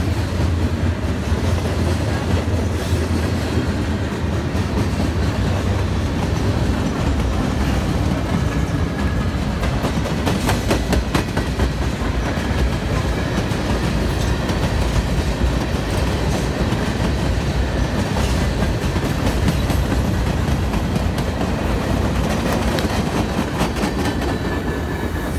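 Freight train cars of a mixed manifest (covered hoppers, tank cars, a lumber flatcar) rolling steadily past close by: a continuous rumble of wheels on rail, with clusters of clicks as wheels cross rail joints, most noticeably about ten seconds in.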